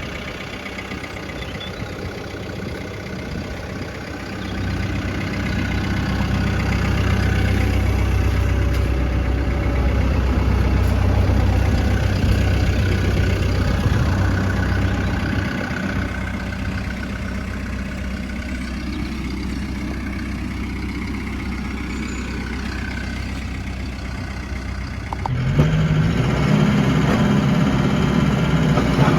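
Caterpillar D3 crawler dozer's diesel engine running. It grows louder about four seconds in and holds, eases off around sixteen seconds, then rises sharply again near the end.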